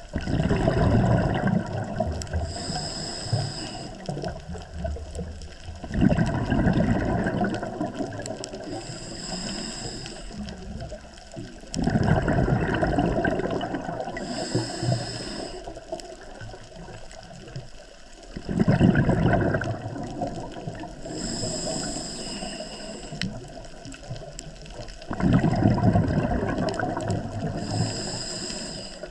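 Scuba diver breathing through a regulator underwater: a rush of exhaled bubbles about every six seconds, five times, with a short hiss from the regulator on each inhale in between.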